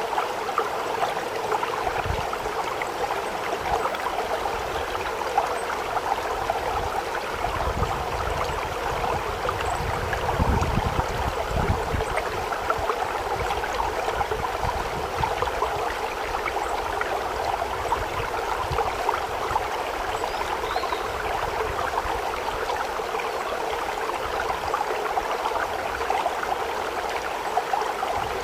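Steady rush of running water from a stream, with a few low rumbles in the middle.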